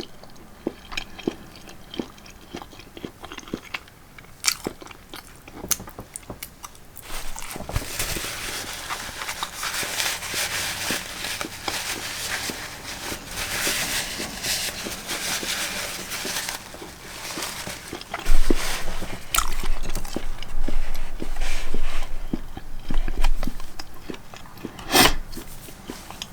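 A person chewing and biting food close to the microphone: many small wet mouth clicks and crunching bites, busier in the middle and again later on, with one sharp louder click near the end.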